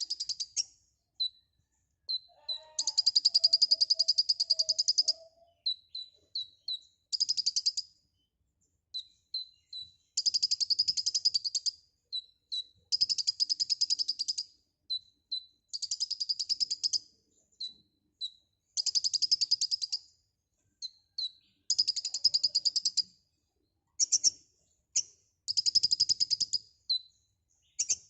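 Brown-throated sunbird (kolibri ninja) singing vigorously: a fast, high, buzzy trill lasting a second or two, repeated about every three seconds, with short single high chips between the trills.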